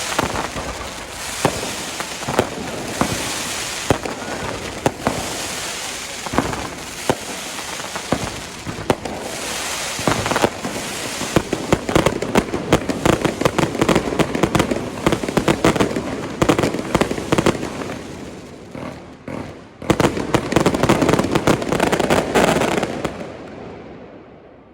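Fireworks display: a rapid barrage of shell bursts and crackling, growing denser toward a finale, then dying away near the end.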